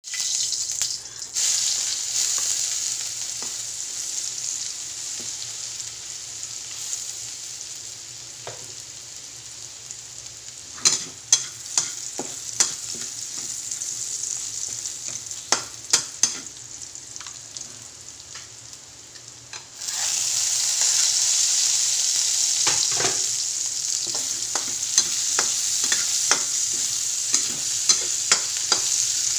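Chopped garlic sizzling in hot oil in a steel wok, with a metal spatula clinking and scraping against the pan as it is stirred. The sizzle suddenly grows louder about two-thirds of the way through, when onions go into the oil.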